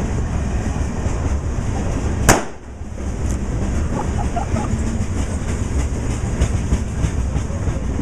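Freight train cars rolling past close by, a steady rumble and clatter of wheels on the rails. A single sharp crack sounds about two seconds in.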